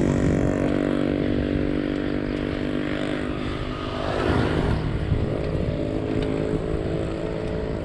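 Motorcycle engine running steadily close by, with wind rumbling on the microphone of a moving bicycle; a brief louder swell of noise about four seconds in.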